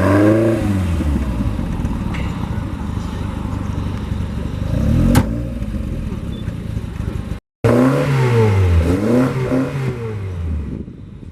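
A classic car's engine is revved, its pitch rising and falling in throttle blips about a second in and twice more in the second half, and runs steadily in between. A single sharp click comes about five seconds in.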